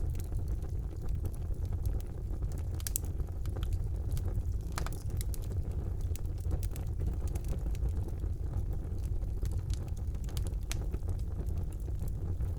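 Wood fire burning in a fireplace: a steady low rumble of flames with scattered sharp crackles and pops, a couple of louder pops about three and five seconds in.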